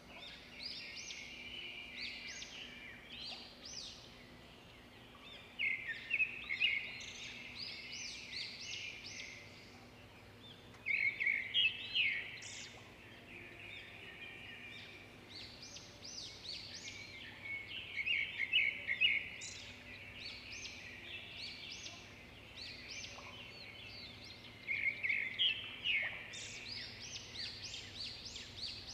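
A songbird singing: runs of rapid high chirps and trills, swelling into a louder song about every six or seven seconds, over a faint steady low hum.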